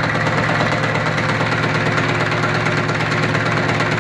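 AVZ-180 rotary plunger vacuum pump running steadily during its bench test after an overhaul, a constant mechanical drone with a fast, even pulse.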